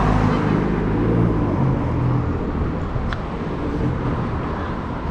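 City street traffic: a motor vehicle's engine running close by, louder for the first second or so and then easing off, over steady road noise. A single faint tick about three seconds in.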